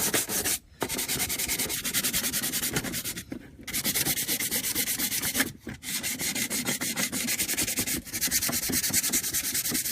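150-grit sandpaper rubbed rapidly back and forth over the stock hood vent plate, flattening and smoothing the area where it was welded so the adhesive bonds better. The scratchy sanding runs in quick even strokes, broken by three or four short pauses.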